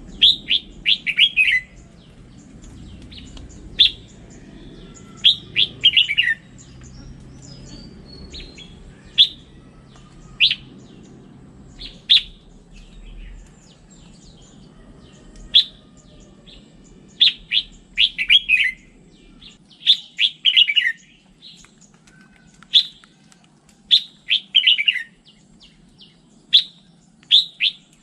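Red-whiskered bulbul singing: short, quick phrases of a few clear whistled notes that fall in pitch, repeated every second or two.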